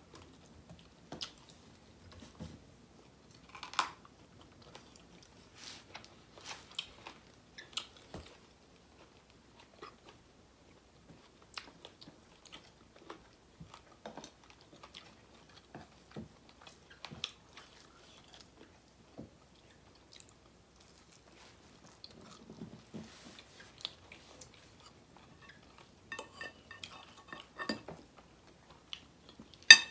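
Close-up chewing of two people eating rice and curry by hand, with many short, scattered mouth clicks and small taps. A single sharp click just before the end is the loudest sound.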